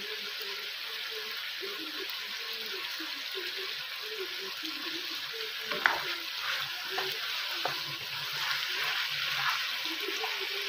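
Chicken pieces and sliced chorizo sizzling in oil in a frying pan. About halfway through, a spatula starts stirring, with scrapes and knocks against the pan; the first knock is the loudest.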